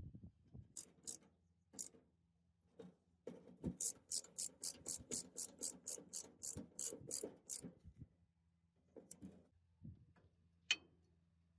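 Rapid mechanical clicking, about five clicks a second for some four seconds, with a few single clicks before and after.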